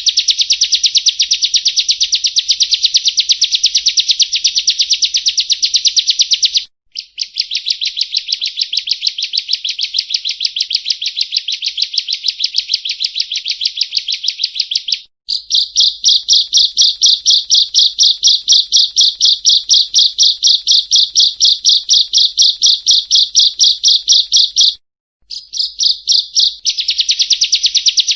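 Prinia (perenjak) song: long, rapid trills of sharp, evenly repeated high notes. Brief breaks come about 7, 15 and 25 seconds in, and the note pattern changes between phrases. This is a lure call for attracting prinias.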